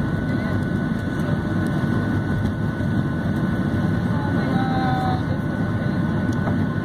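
Steady cabin roar inside a Boeing 737-700 under way: jet engine and airflow noise heavy in the low end, with a faint steady high whine.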